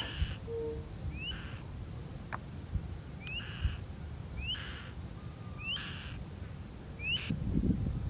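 A bird calling a short, sharp rising whistle over and over, about six times at intervals of a second or so, over a low rumble.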